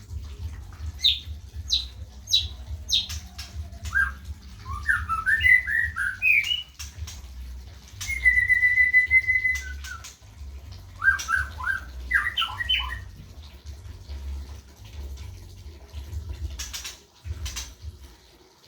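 White-rumped shama calling: a few sharp falling notes, bursts of quick chattering, and one held whistle about eight seconds in, over a low steady hum.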